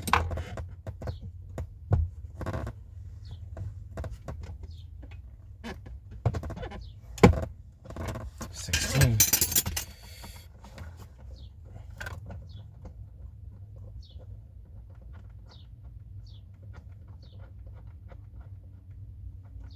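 Hand tools clinking and clanking against metal fittings while a wrench size is tried on a brake line fitting, with one sharp clank about seven seconds in and a rustle just after. For the second half there are only faint high chirps about once a second.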